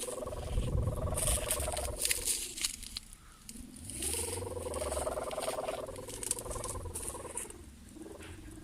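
Kite hummer (sendaren) droning in gusting wind. Its pitch and loudness swell up and sink back twice, with a short lull between the two swells.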